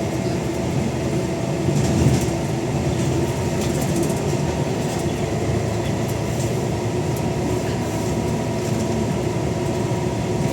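Scania N94UD Omnidekka double-decker bus under way: the engine drones steadily with a constant whine from the ZF automatic gearbox.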